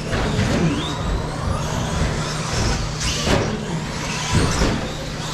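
1/10-scale 2WD stadium trucks racing: electric motors whining up and down in pitch over steady track noise, with a few sharp knocks, the loudest about three seconds in.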